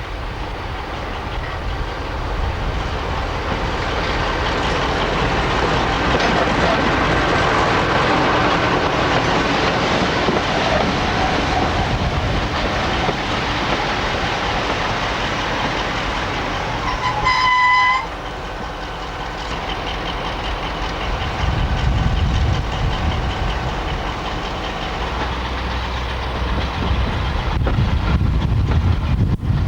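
Diesel train running on the line, its engine and wheels on the rails making a steady noise. About seventeen seconds in the horn sounds once, briefly, on a single note. The engine's low rumble grows heavier toward the end.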